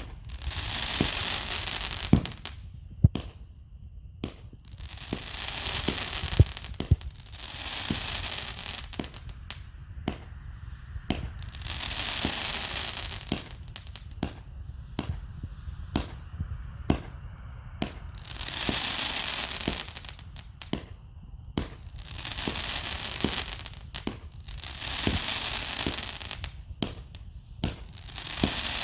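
A 36-shot 200-gram consumer firework cake (Enigma 'Gandalf's Power') firing: sharp launch thumps and pops, with waves of loud crackling hiss lasting a second or two that come back every few seconds.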